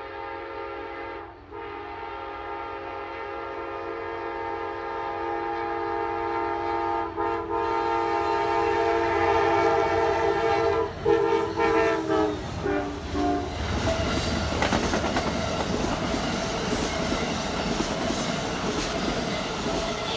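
An Amtrak passenger train's diesel locomotive sounding its horn for a grade crossing in long blasts with brief breaks, ending in a few short blasts. The locomotive and passenger cars then pass close by with a loud rush of wheel and rail noise and clickety-clack.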